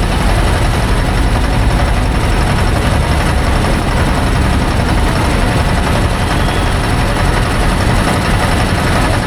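Motorboat engine running steadily, a continuous low rumble.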